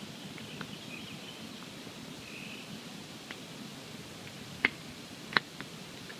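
Wood campfire burning with a steady low rush and scattered crackles, with two sharp, loud pops a little before the end.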